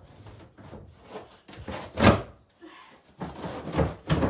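A few heavy thuds and knocks as something is shut and pushed into place to keep animals out of the chicken food. The loudest thud comes about two seconds in and another at the end.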